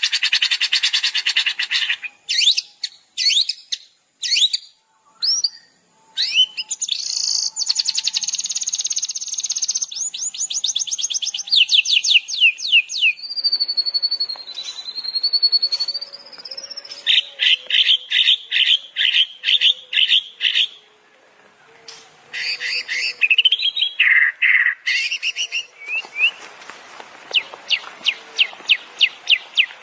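Songbirds singing on a bird-song tutor recording, one phrase after another: dense trills, sharp separate chirps, a long warbling whistle about halfway through, and fast runs of repeated chips.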